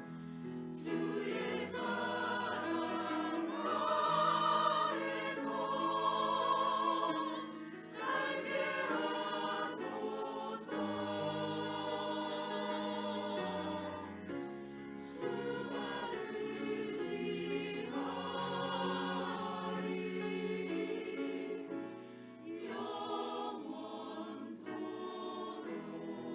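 Church choir singing a hymn in phrases, its held notes wavering with vibrato, with short breaths between phrases.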